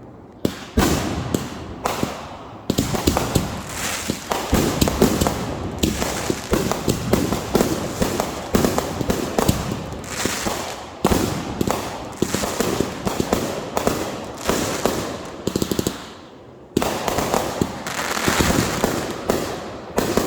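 Fireworks going off in dense, rapid volleys of bangs and crackles, with a brief lull about sixteen seconds in before the crackling resumes.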